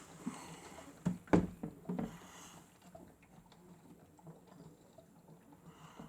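Miele W1 toy washing machine running its wash cycle: a faint steady low hum from its small motor, with a cluster of light knocks between about one and two seconds in.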